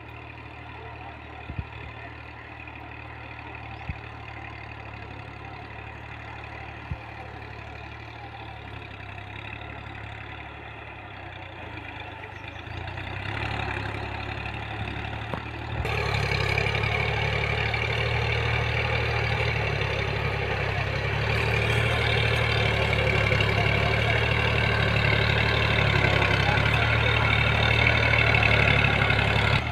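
Tractor engine running steadily under plowing load. It grows louder about halfway through, with a sudden step up soon after. A few sharp clicks come in the first several seconds.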